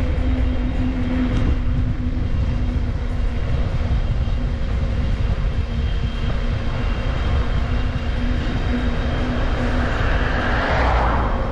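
Steady low rumble of riding a bicycle, wind and road noise on the microphone, with a constant hum under it. A louder hiss swells and fades again near the end.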